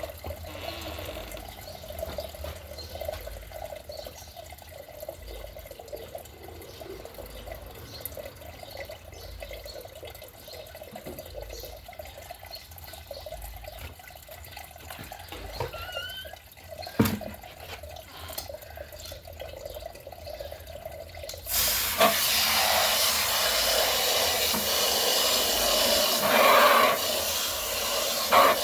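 A low trickle of water with a single sharp knock partway through, then about three quarters of the way in a loud, steady hiss of falling water starts abruptly and keeps going.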